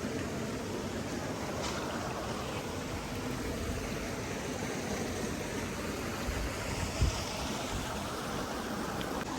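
Steady rushing of running water, as from a stream. About seven seconds in there is a brief low thump.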